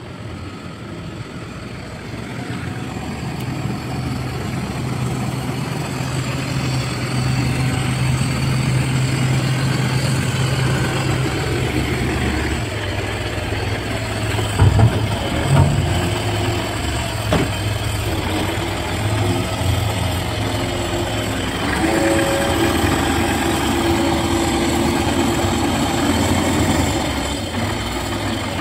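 Garbage truck's engine running steadily, with a few sharp metal knocks about halfway through and a steady higher hum joining for several seconds near the end.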